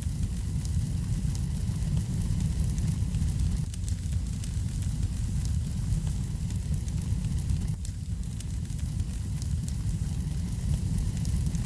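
Wood fire crackling in a fireplace: scattered small crackles over a steady low rumble.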